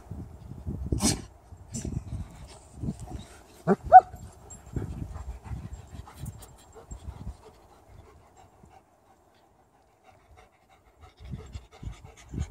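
Dogs panting and breathing hard during rough play. About four seconds in come two brief high-pitched cries close together, the loudest sound. The panting fades out for a few seconds in the second half and returns near the end.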